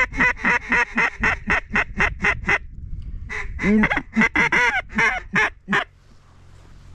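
Mallard duck call blown in a quacking cadence: two loud runs of quacks at about four a second, the second run ending about six seconds in.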